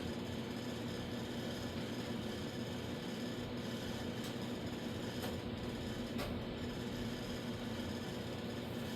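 Steady machine hum with hiss from a running motor or fan, with three faint ticks in the middle.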